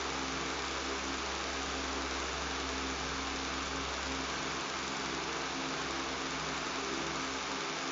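Electric fan running steadily with a buzz: an even, unbroken hiss over a low hum.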